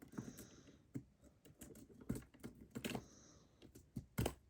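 Light scattered clicks and short rattles of containers of seed beads being picked up and handled, with a louder knock near the end.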